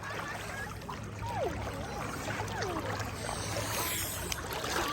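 Lakeside shallows ambience: a steady wash of water with a low steady hum underneath, and faint distant voices calling now and then.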